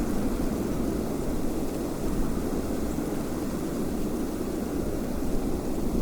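Steady, low rushing wind, even throughout with no gusts standing out.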